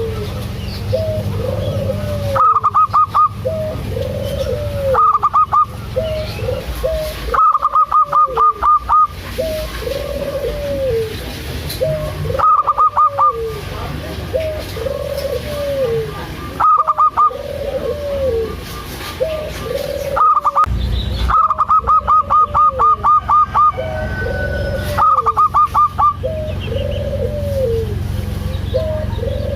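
Zebra dove (perkutut) cooing: a soft, arched coo repeats about every second and a half, and every few seconds loud bursts of quick, higher staccato notes break in, about eight times in all.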